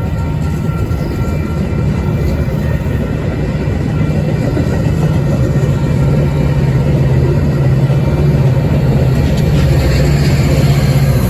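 A train passing close by with a steady low engine drone that grows gradually louder, with a brief rise in hissing noise near the end.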